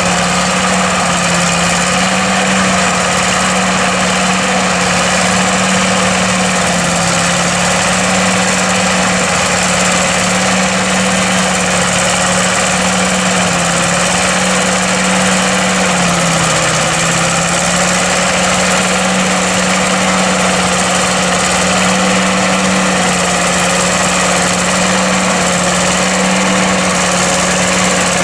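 Massey Ferguson tractor's diesel engine running steadily under load, driving a forage harvester cutting silage, with a dense mechanical whir over the engine note. The engine note dips briefly a little past halfway, then recovers.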